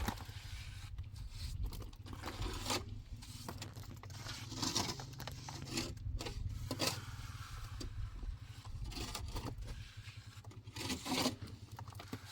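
Irregular scraping strokes of a hand tool against a rough surface, some short and some about half a second long, over a steady low hum.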